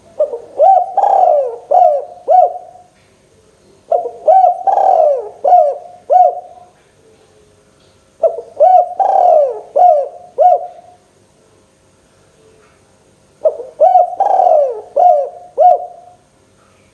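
Spotted dove (local tekukur) singing its cooing song four times, each call a quick run of about five low coos, with a pause of one to two seconds between calls.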